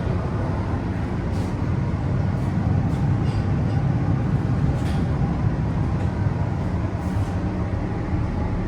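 Washington Metro railcar running along the track, heard from inside the car: a steady low rumble with a few faint clicks.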